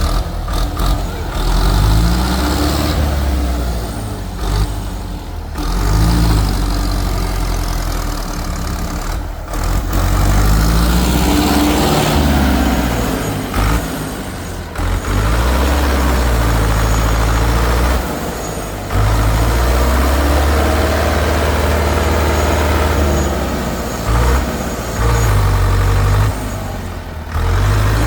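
Tractor engine revving up and down over and over, a loud low rumble whose pitch rises and falls every few seconds.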